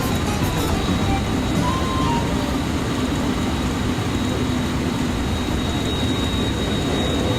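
Cabin noise of a JR West 223 series electric train running at speed: a steady rumble of wheels on rails with a thin, steady high tone above it.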